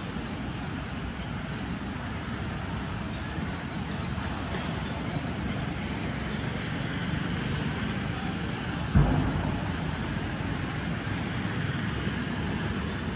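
Steady rumbling background noise, with one sudden thump about nine seconds in.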